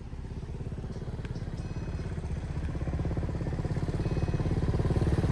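Motorcycle engine running with an even, rapid firing pulse, growing steadily louder throughout.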